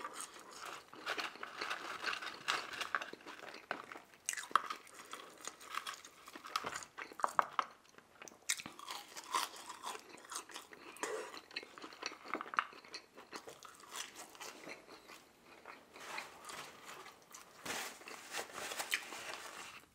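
Close-miked chewing of a mouthful of McDonald's french fries, with many short wet smacks and clicks of the mouth throughout.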